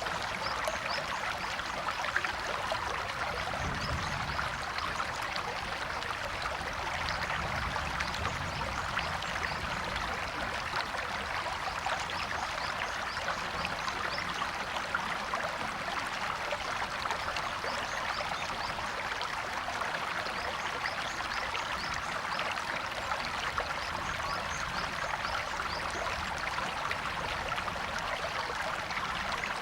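A stream or small river flowing and trickling over rocks, a steady rush of water with small splashes and bubbling throughout.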